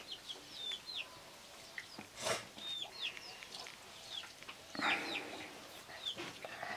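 Birds peeping throughout with short, high, falling chirps, repeated every fraction of a second. A sharp knock about two seconds in and a louder brief scrape or rustle about five seconds in come from aluminium pots being handled on the floor.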